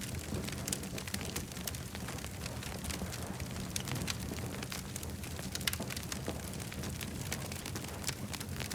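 Campfire crackling, with frequent irregular sharp pops over a steady low rumble. One pop a little past the middle stands out louder than the rest.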